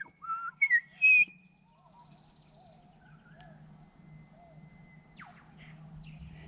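A person whistling a few short, loud, high notes in the first second or so, then birds calling softly, with a high trill about three seconds in, over a faint low hum.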